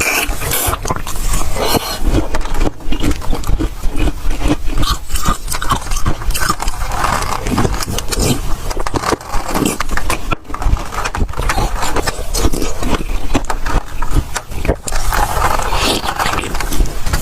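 Close-miked chewing and crunching of soft, powdery ice, a dense irregular run of small crackling crunches.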